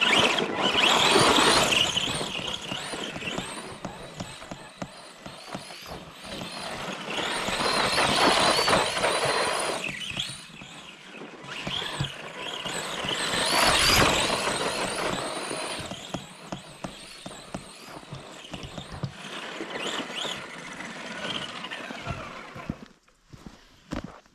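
ARRMA Granite 4X2 Boost 1/10 RC monster truck running, its brushed Mega 550 motor and gears whining. The sound swells and fades three times as the truck drives by.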